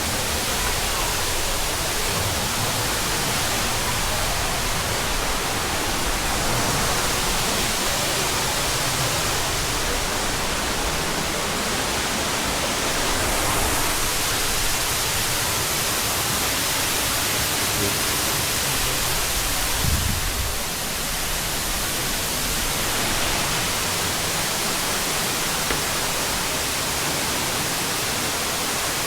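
Waterfall's steady rush of falling water, with a brief low thump about two-thirds of the way through.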